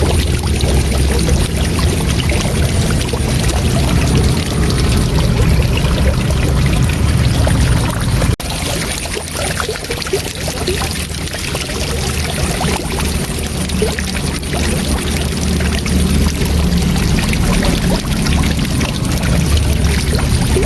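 Waterfall rushing steadily, with a dense, even wash of falling water; there is a brief dip in level about eight seconds in.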